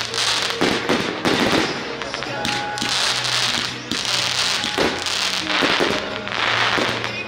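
Aerial fireworks going off overhead: a run of sharp bangs, each followed by a hissing, crackling burst, several times over. Music plays underneath.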